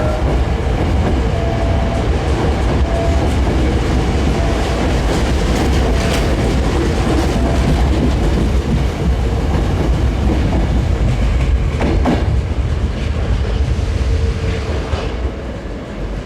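Hankyu 1300-series electric commuter train running along the station track, its wheels clicking over rail joints, the sound fading near the end as it moves away.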